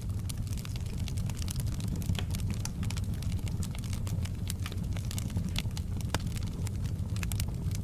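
Wood fire crackling in a fireplace: many sharp pops and snaps over a steady low rumble of the burning logs.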